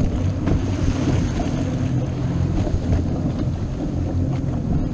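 Boat running under way: a steady low engine drone mixed with wind buffeting the microphone and the rush of water.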